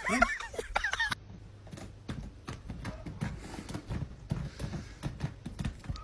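A brief squeaky pitched call in the first second, then a steady run of light knocks, about four a second, like steps or hoofbeats on a hard surface.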